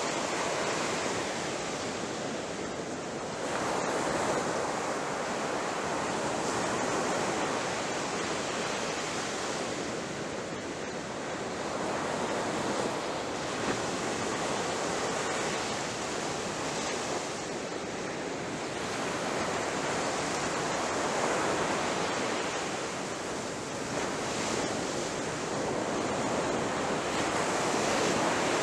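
Ocean waves crashing, a continuous rush of surf that swells and eases as each wave breaks, every four to seven seconds.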